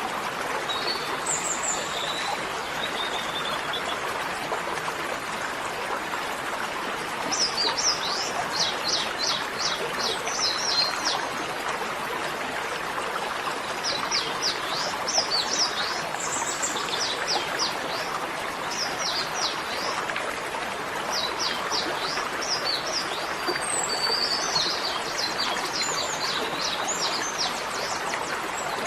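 Birds singing in bouts of quick repeated chirps over a steady rush of running water.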